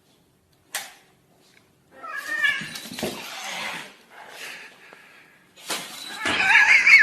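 A cat meowing, then a longer, louder wavering yowl near the end.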